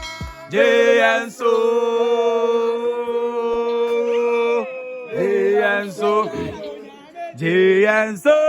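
Vocal music: a voice singing long held notes, one held about three seconds, between shorter sung phrases.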